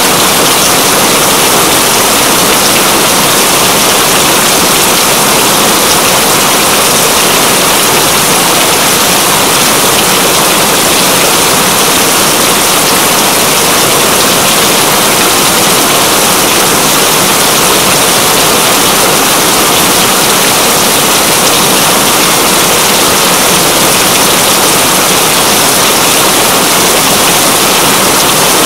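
Steady rain, a dense, even hiss that does not change.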